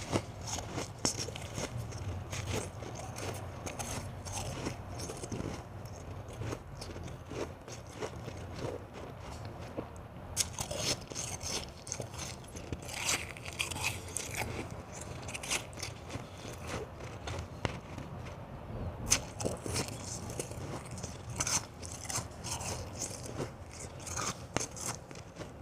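Ice being bitten and chewed close up: continuous crunching and crackling, with a few louder crunching bites scattered through.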